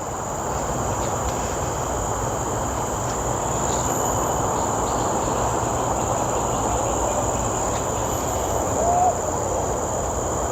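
Steady high-pitched drone of tropical forest insects, crickets or cicadas, over a constant rushing background noise.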